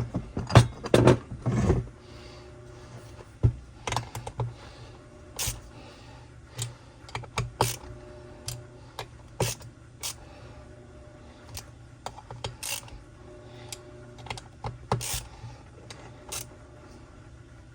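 Metal hand tools clicking and clinking against a saw's crankcase as its screws are given their final tightening by hand. The clicks are irregular, with a louder flurry in the first two seconds.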